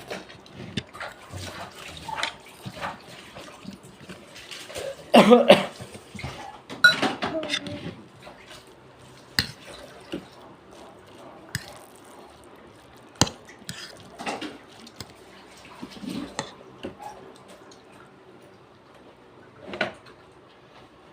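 Eating sounds of a palabok noodle meal: cutlery clicking and clinking against a plate in scattered sharp ticks, with louder, busier stretches of mouth and dish noise about five to seven seconds in.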